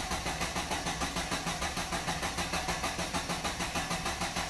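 A four-cylinder car engine being cranked over by its starter motor, with an even pulsing beat of about six strokes a second as each cylinder comes up on compression. The relative compression test on this freshly rebuilt engine shows no compression loss in any cylinder.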